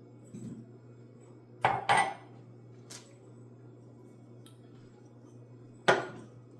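Kitchen dishes and utensils knocking together: two sharp clatters in quick succession about two seconds in, a lighter click a second later, and another sharp knock near the end.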